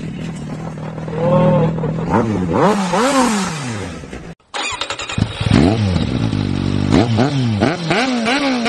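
Motorcycle engine revving, its pitch sweeping up and down again and again. About four seconds in it cuts suddenly to another recording of a motorcycle revving in quick rising and falling sweeps.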